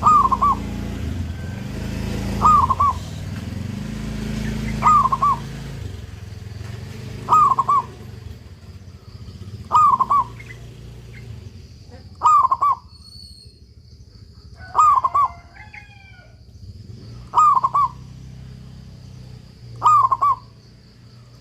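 Zebra dove (perkutut) cooing its short rhythmic phrase over and over, about once every two and a half seconds. A low rumble sits under the first several seconds, and a few faint higher chirps from another bird come in past the middle.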